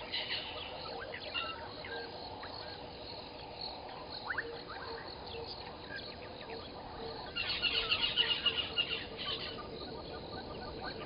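Wild birds calling: scattered high chirps and short rising notes, then a louder burst of rapid chirping about seven seconds in that lasts a second and a half, over a faint steady pulsing tone.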